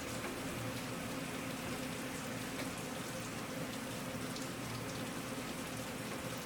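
Steady rain falling, with the patter of single drops heard over an even hiss.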